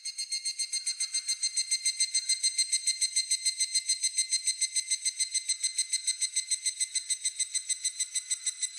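Evening cicada (higurashi) calling a rapid, evenly pulsed 'kana-kana-kana' phrase of about seven pulses a second. It is high-pitched and starts loud, then fades near the end.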